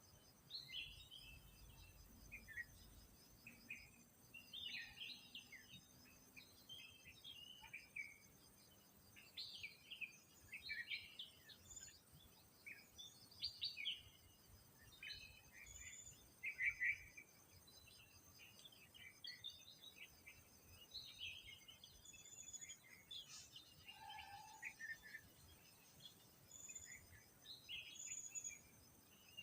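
Wild birds calling with many short chirps and twitters throughout, over a steady high-pitched pulsing trill in the background.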